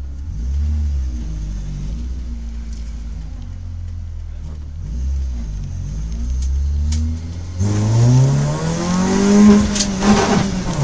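Citroën Saxo race car's engine heard from inside the stripped cabin, running at low revs, then accelerating hard about three quarters of the way in with the revs climbing steeply and tyre and road noise rising with it.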